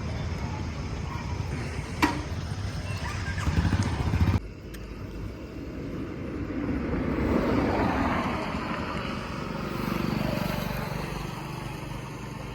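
Low vehicle engine rumble that cuts off abruptly about four seconds in, followed by road noise from vehicles passing, swelling and fading twice.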